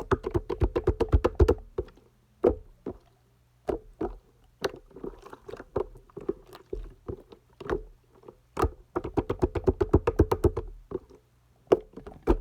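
Clear yellow slime being squeezed and poked by hand, making wet clicking and popping sounds: two quick runs of rapid pops, one at the start and one about nine seconds in, with single pops between.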